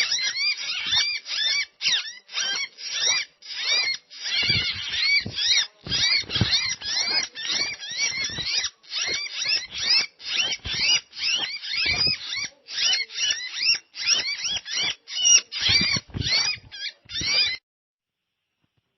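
Cinereous tits (gelatik batu) chattering: a rapid, dense string of short, harsh, rising-and-falling chirps with no gaps, cutting off abruptly near the end.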